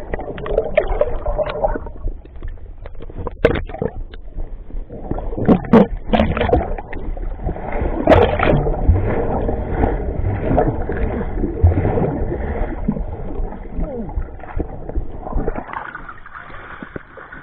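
Lake water sloshing, gurgling and splashing close to the microphone, with a run of evenly spaced splashing strokes in the middle. It fades near the end.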